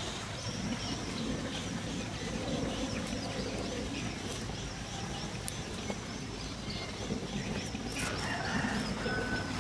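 Birds calling, with a continuous high chirping.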